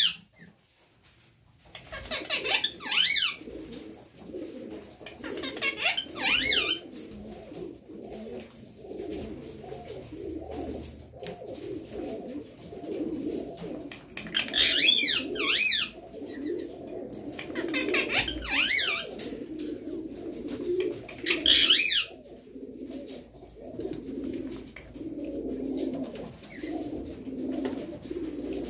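Parrots calling: about five loud, harsh squawks, each falling in pitch, come at uneven intervals over a continuous low warbling murmur of bird calls.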